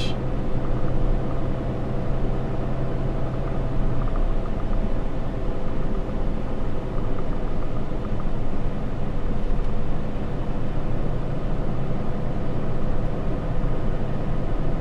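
Cab interior of a Ram 3500 pickup on the move: its 6.7-litre Cummins inline-six turbo diesel running steadily under road noise. A steady low hum drops away about four seconds in.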